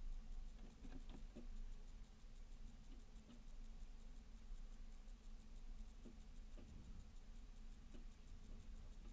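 Faint, scattered taps and ticks of small birds (titmice and sparrows) pecking seeds at a feeder, over a steady low hum.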